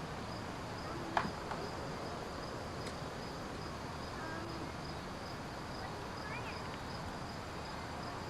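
An insect chirping steadily in the background, a thin high pulse about twice a second, over a low outdoor hiss, with one sharp click about a second in.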